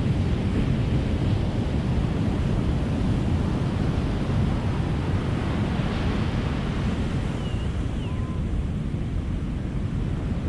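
Ocean surf breaking on a beach: a steady, continuous rush of waves.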